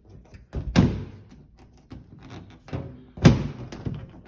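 Furnace front access panel being handled: two loud thuds about two and a half seconds apart, with lighter clicks and taps between.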